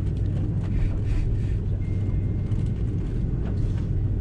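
Airbus A330-343 cabin noise during taxi: a steady low hum from the idling Rolls-Royce Trent 700 engines, with the rumble of the airframe rolling on the taxiway. A faint thin high tone joins about two seconds in, and there are a few light clicks.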